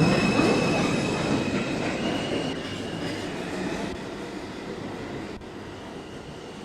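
Subway train moving off, its rumble and a high wheel squeal fading steadily over several seconds as it draws away.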